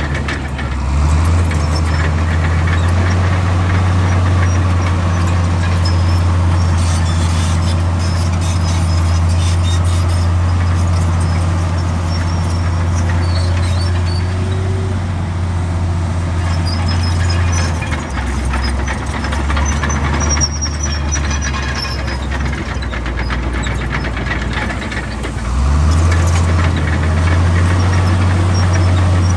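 Heavy diesel earthmoving machinery running steadily under load. The engine note rises about a second in, drops back for a stretch past the middle and rises again near the end, with faint high squeaks now and then.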